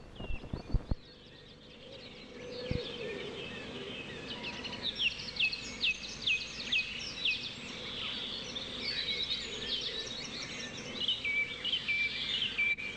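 Birds singing outdoors: a long run of quick, high, falling chirps repeated over and over, over a low outdoor background hiss. A few sharp clicks sound in the first second.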